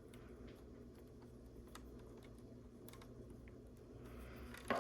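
Faint, scattered clicks of plastic LEGO pieces being handled and pressed together, with a louder click near the end, over a steady low hum.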